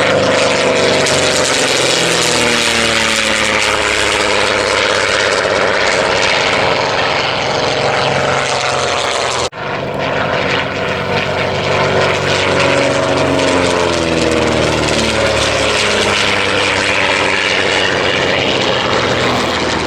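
Vintage piston-engined propeller aircraft flying past in a display. The engine pitch falls as each aircraft passes, rising and falling again in the second half. The sound cuts out for an instant about halfway.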